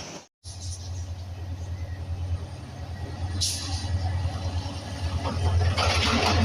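Diesel locomotive engine running with a steady low pulsing rumble that grows louder as the train comes closer. There is a brief hiss about three and a half seconds in, and rising train noise in the last second or so.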